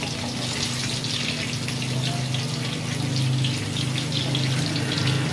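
Tofu cubes frying in hot oil in a nonstick pan: a steady sizzle with scattered crackles. A low steady hum runs underneath and grows louder about three seconds in.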